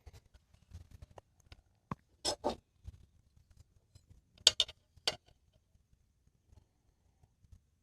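A few short knocks and scrapes of objects being handled, spaced out over quiet, the sharpest about four and a half seconds in.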